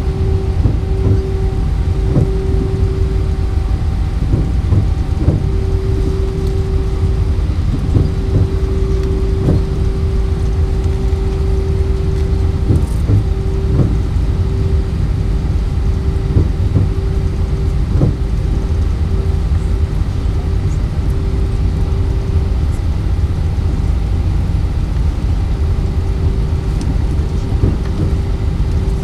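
Airbus A320's IAE V2500 engines and airflow heard inside the cabin over the wing: a deep, steady rumble with a steady hum that fades in and out, and scattered short knocks and rattles.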